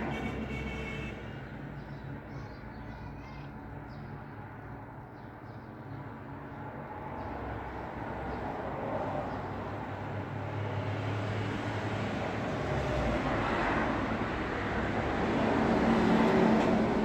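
Road traffic: a steady engine rumble of passing vehicles. One vehicle grows louder over the last few seconds and passes close near the end.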